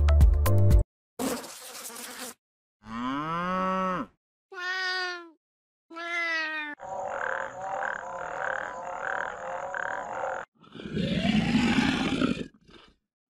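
A run of different animal calls, one after another with short gaps: a brief noisy call, three short calls that rise and fall in pitch, a few seconds of a steady high buzz over pulsing calls, then a deep rough call near the end.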